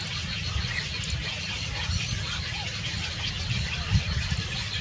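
Faint, scattered high chirps of small birds over a steady low rumble, with one quick downward-sliding call at the very end.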